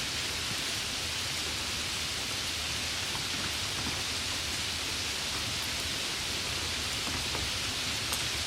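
Steady rain falling, an even hiss of noise with scattered individual drop ticks.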